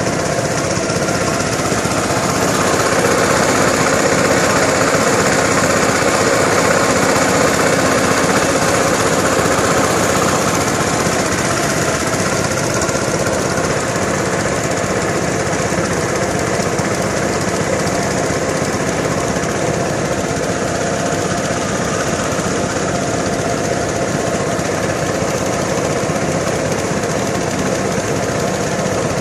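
An engine running steadily and close, with a rough, rattling sound. It is a little louder from about three to ten seconds in.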